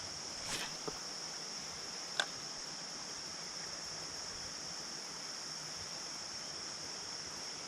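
Steady, high-pitched chorus of insects such as crickets, with a brief rustle about half a second in and a single sharp click about two seconds in.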